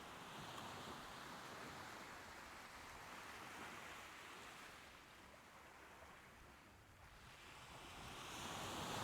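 Soft ocean waves washing on the shore, faint. The surf ebbs away near the middle, and the next wave builds toward the end.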